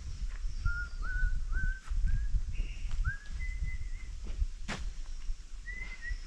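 Whistling: a run of short notes that each rise at the start, repeated about every half second, then a few higher, longer whistles, over a low rumble, with one sharp click a little past halfway.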